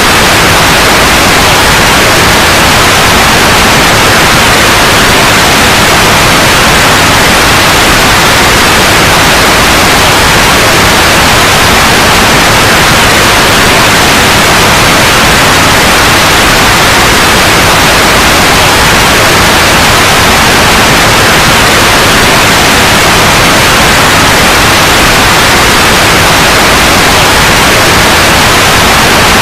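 Steady, loud white noise, a constant even hiss with no change.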